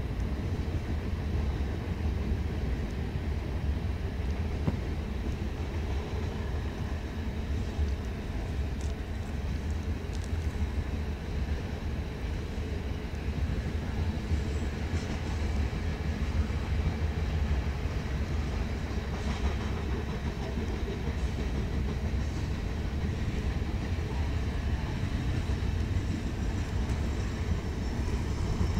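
Train running on the rails: a steady low rumble with a few faint clicks scattered through it.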